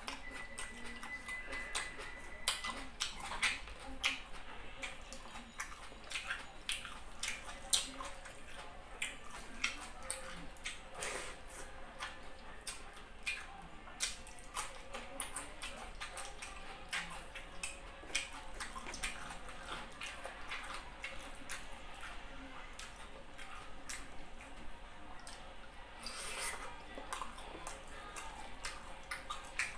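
Close-up eating sounds: wet chewing, lip smacks and mouth clicks as a person eats rice, pork and cucumber by hand, in many short, irregular clicks over a faint steady hum.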